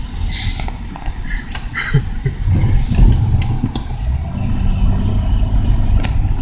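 Subaru Forester's flat-four engine pulling the car through deep snow, with a low rumble from the tyres and snow under the car. It gets louder about halfway through, settling into a steady engine note.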